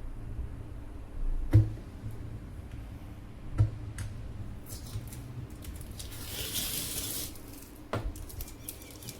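Handling sounds: a few light knocks and taps, the first the loudest, and about a second of hissing near the middle, over a steady low hum.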